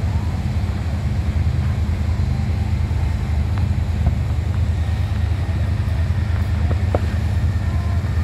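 Steady low rumble of a river cruise boat's engine heard on board, with some wind on the microphone.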